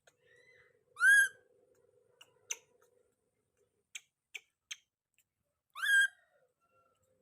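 Baby monkey giving two short, high-pitched calls that rise in pitch, about five seconds apart, with a fainter call just before the first. A few light clicks fall between the calls.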